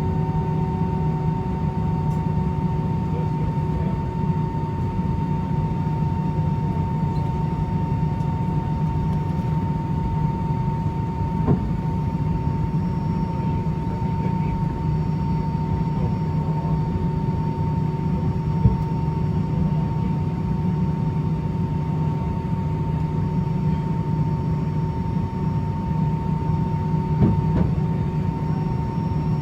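Steady drone inside an Airbus A319 passenger cabin on the ground, with its engines and air conditioning running. Several constant tones sound over it, and there are a few faint knocks, about a third of the way in, about two-thirds in, and near the end.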